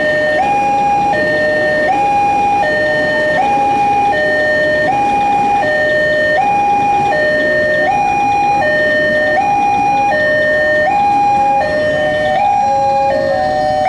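Railroad level-crossing alarm sounding a two-tone alternating signal, a higher tone then a lower one, repeating about every second and a half, over the rumble of a passing electric commuter train.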